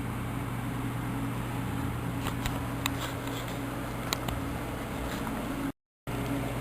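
Steady low hum with a few faint light clicks, broken by a brief dead-silent dropout near the end.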